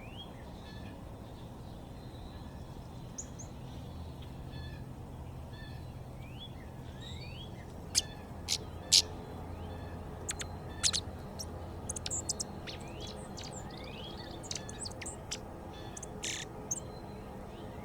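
Small backyard birds calling: short rising notes repeat in the background, and from about halfway a run of sharp, loud chips close by. A steady low hum lies underneath.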